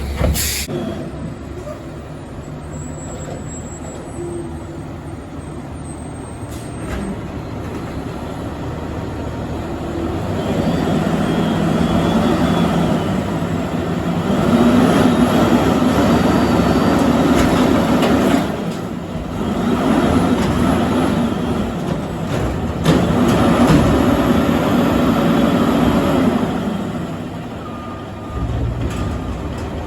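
Garbage truck running, its sound swelling in three long loud stretches through the middle, then easing off near the end.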